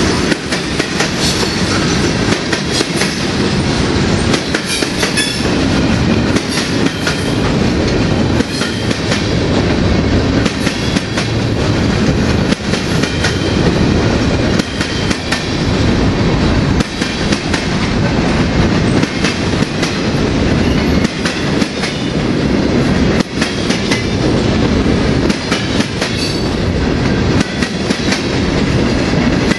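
Freight cars of a CSX local train rolling past, a steady rumble with frequent clacks of wheels over rail joints.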